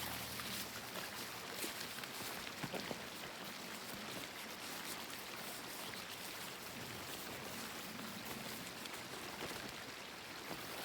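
A small stream running steadily, an even rushing hiss of water, with a few faint clicks over it.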